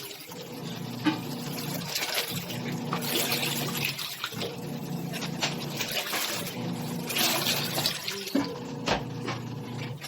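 Electrolux ELAV-8450 washing machine running with water inside: its motor hums in stretches of about two seconds with brief pauses between them, under irregular sloshing and splashing of the water.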